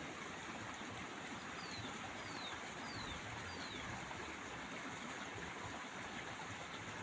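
Steady rush of running water, with four short high whistles that each glide downward, evenly spaced over about two seconds.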